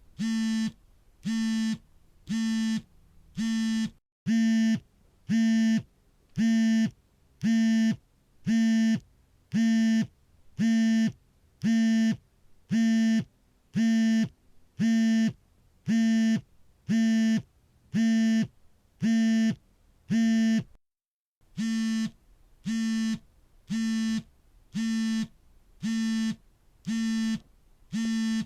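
Smartphone vibration motor buzzing in repeated short pulses, about half a second on and half a second off, like an incoming-call alert. The pulses stop briefly about two-thirds of the way through, then start again.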